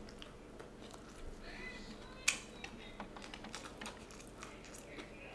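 Scattered soft clicks and taps at close range, with one sharper click about two seconds in.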